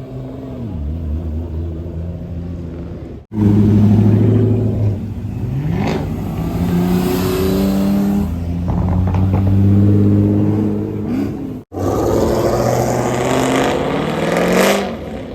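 Performance car engines accelerating hard as they pull away, with rising revs through the gears. The sound breaks off abruptly twice, so it is several separate pulls.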